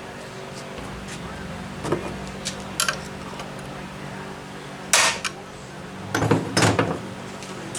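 Metal tools and engine parts being handled on a workbench: scattered clinks and clanks, with a louder clank about five seconds in and a quick cluster of knocks a little after six seconds, over a steady low hum.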